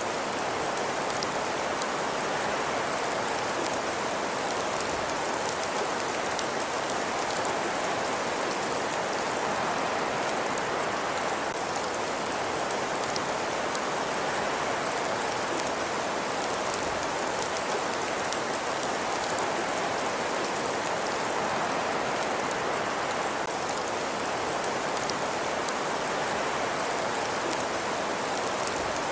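Wood fire crackling in a fireplace: a steady hiss flecked with faint ticks and pops.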